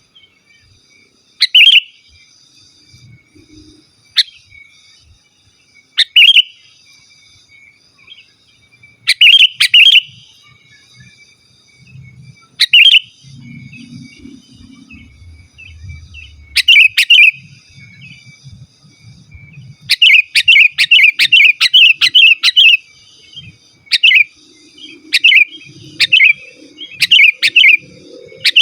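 A sooty-headed bulbul calling in loud, short chirping phrases. The calls come singly every few seconds at first, run together in a quick string about two-thirds of the way in, then come about once a second. This is the bird's natural, unembellished call, without mimicked songs of other birds.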